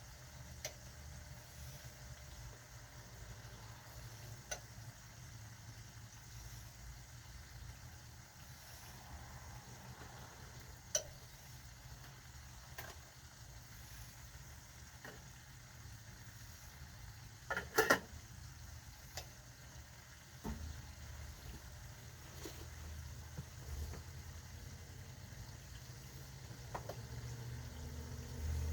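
Pot of water boiling on the stove, a steady low rumble, with occasional light clicks and knocks and a louder double clatter about eighteen seconds in.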